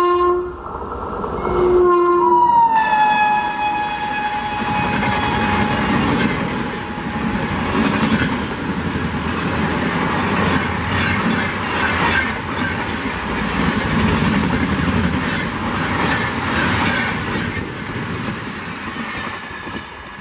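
Indian Railways WAP-7 electric locomotive sounding its horn: a blast that ends about half a second in, then a second blast near 2 s that drops in pitch and is held for several seconds as the locomotive passes. The long passenger train then rushes past at speed with its wheels clattering on the rails, easing off near the end.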